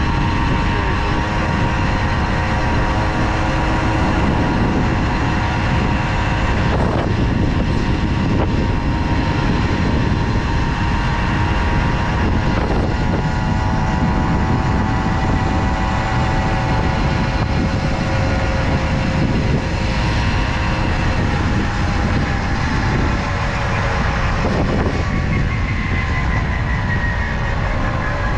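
Tomos Silver Bullet moped's small two-stroke engine running at a steady cruise over a dense rush of low noise, its pitch easing lower over the last several seconds.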